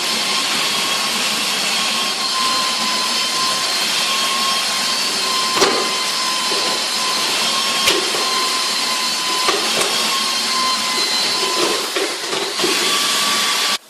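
An electric motor runs steadily at high speed with a constant whine over a loud rushing noise, with a couple of sharp knocks partway through.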